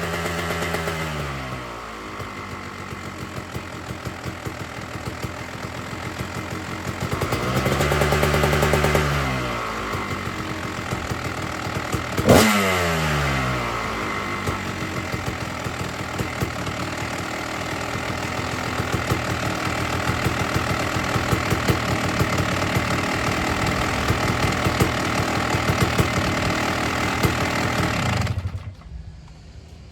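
1999 Kawasaki KX250 two-stroke engine running after a cold start. The revs drop in the first couple of seconds, it is blipped once around 8 s, and a sharp crack near 12 s is followed by the revs falling back. It then idles steadily, an idle the owner thought sounded lean once the choke was off, until it is shut off and cuts out near the end.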